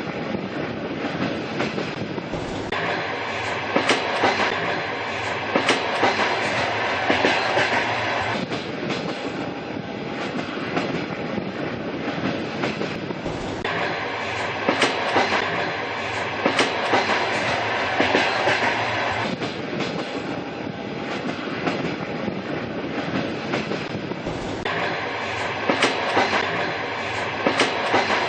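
Old train running along the rails: a steady rumble with the clickety-clack of wheels over rail joints coming in clusters of sharp clicks. The same stretch repeats about every eleven seconds, as a looped recording does.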